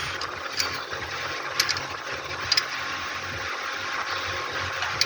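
Steady mechanical drone and hiss of machinery running in the background, with three light metallic clicks about a second apart from hand tools being handled.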